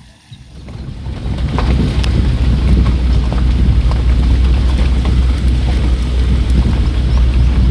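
Steady rain with scattered sharp drop ticks over a heavy deep rumble, building up over the first two seconds and then holding loud.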